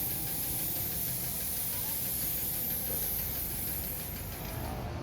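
A steady high-pitched hiss over a low rumble; the hiss fades out just before the end.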